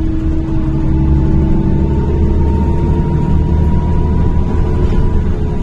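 NefAZ-5299-40-52 city bus running along the road, heard from inside the passenger cabin: a steady low engine and road rumble with a continuous whine that edges slightly up in pitch.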